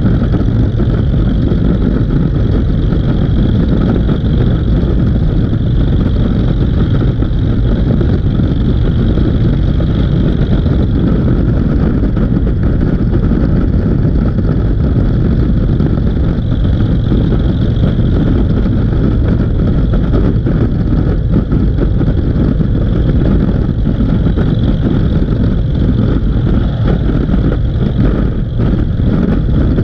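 Steady vehicle running noise from a motorcycle ride, heavy in the low end and unbroken throughout.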